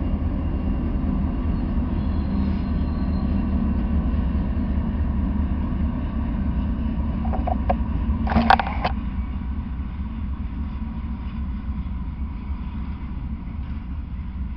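A Norfolk Southern freight train's diesel locomotives and cars passing close by, a steady low rumble of engines and rolling wheels. About eight seconds in there is a brief, sharper sound, the loudest moment. After it the rumble eases slightly as the autorack cars roll past.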